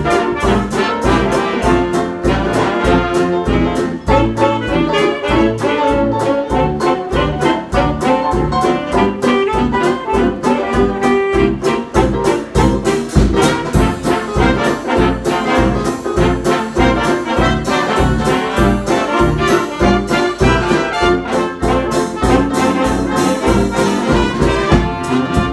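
Jazz dance band playing an instrumental passage led by brass over a steady beat, stopping at the very end.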